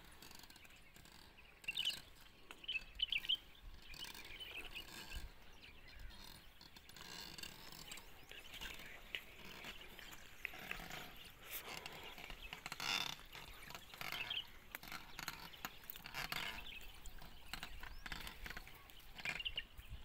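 Birds chirping on and off in short high bursts of calls.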